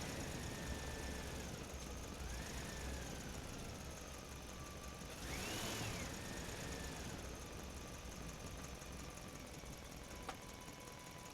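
Small electric motor of a toy tractor whining, its pitch rising and falling as it speeds up and slows down, over a low rumble. It swells to its highest pitch about halfway through, and there is a sharp click near the end.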